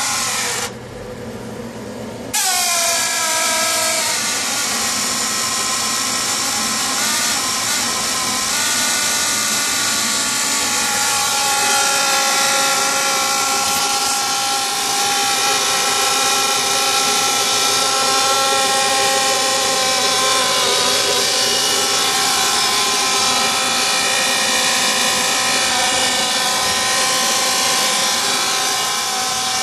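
Gas furnace making a loud, steady whining hum with several overtones during its heat-mode startup, before the blower comes on. It drops away briefly about a second in, comes back about two seconds in sliding down in pitch, then holds steady.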